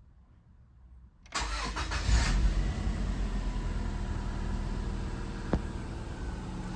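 Subaru Legacy BG5's flat-four boxer engine being started: the starter cranks briefly about a second in, the engine catches and flares up, then settles into a steady idle, with one sharp click midway.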